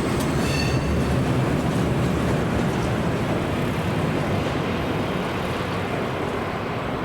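Train running on the rails: a steady rumble that eases off a little near the end, with a brief high-pitched squeal about half a second in.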